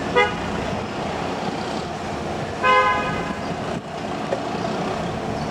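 A horn sounds two toots, a short one at the very start and a longer one about two and a half seconds in, over a steady rumble of engine and wind noise aboard a ro-ro ferry.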